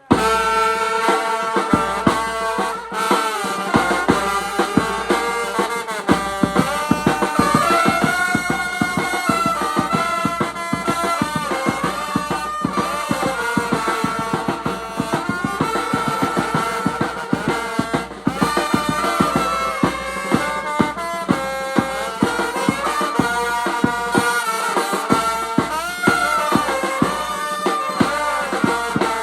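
Vietnamese funeral band music: wind instruments playing a bending, wavering melody over a steady held note, with fast, dense drumming. It starts abruptly and plays on without pause.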